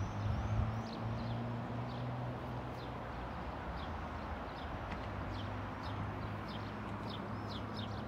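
Small birds chirping repeatedly in short, quick high notes, more often in the second half, over a steady low background hum.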